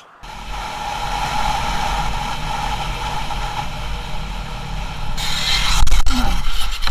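Motor vehicle on the move, a steady rumble with road and wind noise. About five seconds in the noise turns brighter, and a few sharp knocks follow near the end.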